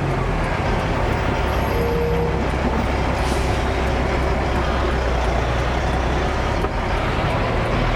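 Heavy dump truck's diesel engine running under way, a steady low hum that steps in pitch a few times, over continuous road noise.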